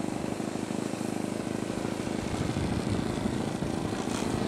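Engine of a radio-controlled Sbach model aerobatic plane running steadily with a rough, buzzing propeller drone.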